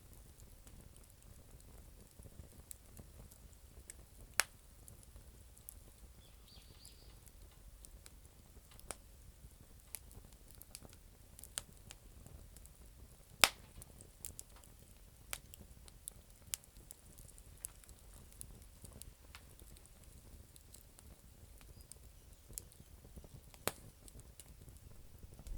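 Campfire of damp firewood crackling: irregular sharp pops and snaps, two much louder pops about four seconds in and near the middle, over a faint low rumble.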